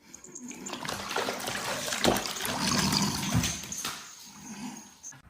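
Water running and splashing. It starts abruptly and dies down about four seconds in.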